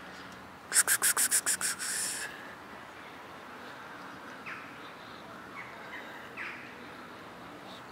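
A bird's rapid rattling call of about eight loud notes in just over a second, followed a few seconds later by several faint short chirps falling in pitch.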